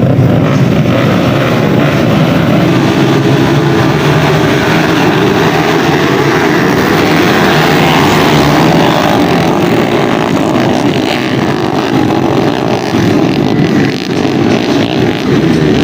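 A pack of small underbone motorcycle engines running and revving together, their pitches overlapping. The sound is loud and steady, easing slightly near the end.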